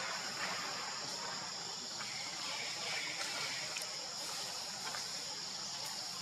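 Steady outdoor background noise with an even high-pitched drone and a few faint ticks.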